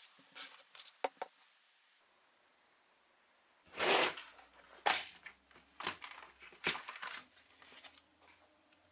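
Small parts being handled by hand: a few faint clicks, then a string of short scraping rustles about one a second from about four seconds in, the first the loudest.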